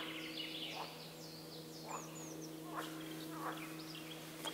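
Birds singing outdoors: scattered short chirps and whistled phrases, with a few lower, shorter rising calls in between. A faint steady low hum runs underneath.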